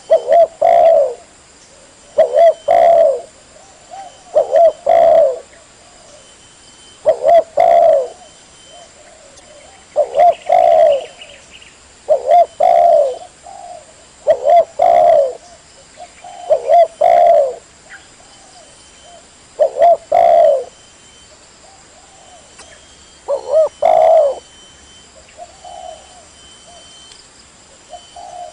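Spotted dove cooing, a short phrase of low coos repeated about ten times, every two to three seconds.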